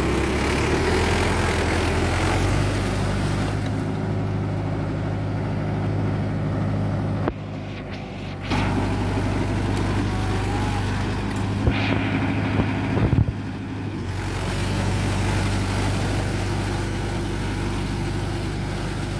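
Mahindra Yuvo Tech+ 585 tractor's three-cylinder diesel engine running steadily, with a brief dip in level about seven seconds in and a few short knocks near the middle.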